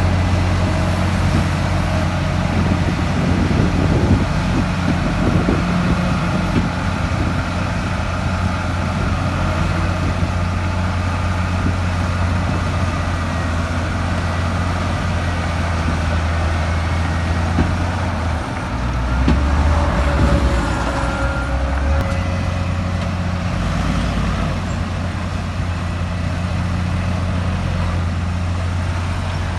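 Heavy diesel earthmoving machinery running steadily under work, a deep continuous engine drone. Its note dips and then recovers about two-thirds of the way through.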